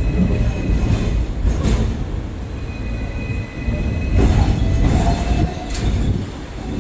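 A vehicle's heavy low rumble with faint steady high whining tones; a lower whine comes in about four seconds in.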